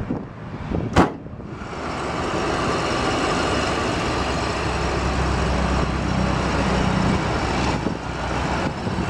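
A sharp thump about a second in, then the 1994 GMC Vandura's 350 cubic inch (5.7 L) V8 idling steadily, heard from outside the van with road traffic noise.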